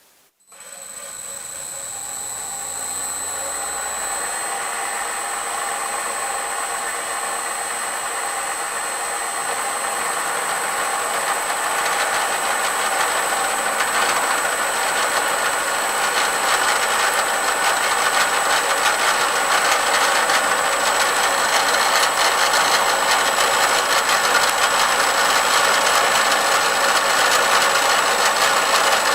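A Bridgeport milling machine's spindle motor starts under a second in and winds up to speed with a steady high whine. A four-insert carbide fly cutter then takes a light facing pass on a steel block, and the cutting noise grows gradually louder.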